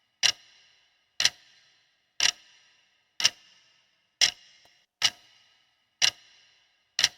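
Clock-tick countdown sound effect ticking evenly about once a second, each tick a sharp click with a short ring, marking the time allowed to answer.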